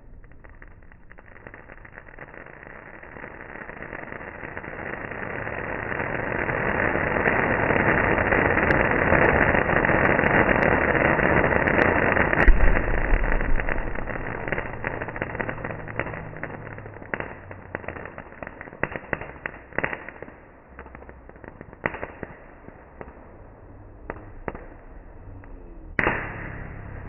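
Firecrackers ('bedi') going off in a dense, rapid crackle that swells over several seconds, then thins out into scattered sharp bangs, with one louder bang near the end.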